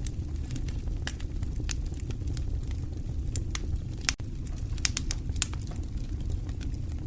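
Crackling fire: a steady low rumble of flames with frequent, irregular sharp pops and snaps.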